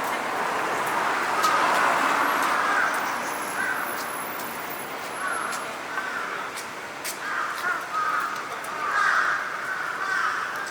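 Crows cawing in a series of short calls that come more often near the end, over a steady background hum.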